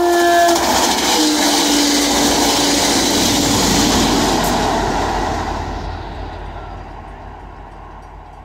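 CTrail passenger train passing close by. Its horn sounds a short blast and then a longer one at a slightly lower pitch, over the loud rush of coaches and wheels on rail. The diesel locomotive at the rear goes by about four seconds in with a low rumble, and the sound then fades away.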